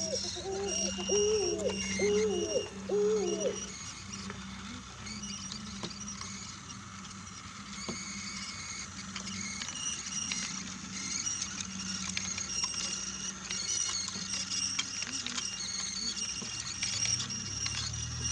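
Battery-powered Brio toy train running on wooden track: a steady motor hum with high whining tones and small clicks. In the first few seconds, about five short repeated calls rise and fall in pitch.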